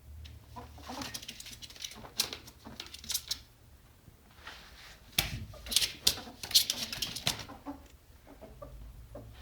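Ferret dooking: a rapid soft clucking, the happy noise a ferret makes when excited, coming in two bouts of a few seconds each.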